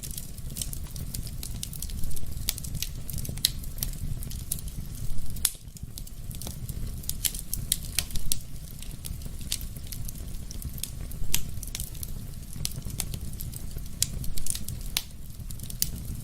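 Wood fire burning in a fireplace: a steady low rumble of flames with frequent sharp crackles, and a louder pop every few seconds.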